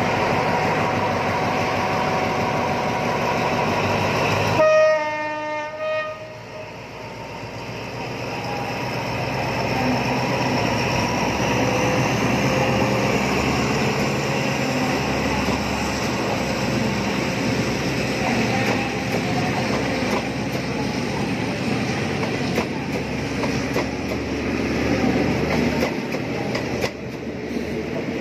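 Diesel locomotive idling, then a short horn blast about five seconds in, the loudest sound. The engine noise then builds as the train moves off, and the passenger coaches roll past close by with wheels clicking over the rail joints.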